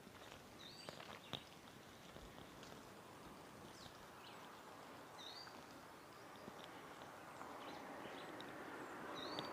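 Faint outdoor birdsong: a short chirping call repeats every few seconds, with a few other scattered chirps. Underneath is a steady hiss of background noise that grows louder toward the end.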